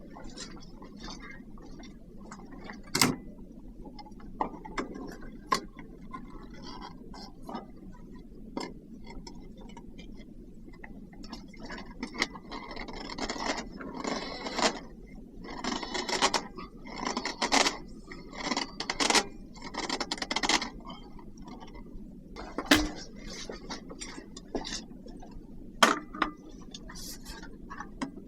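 Hand work with tools or materials: scattered clicks, knocks and clinks. In the middle comes a run of scraping strokes at roughly one a second.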